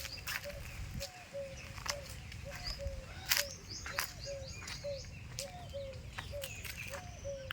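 A bird repeating a short, slightly falling low note about twice a second, with brief high chirps from other small birds. Scattered sharp clicks and snaps run alongside.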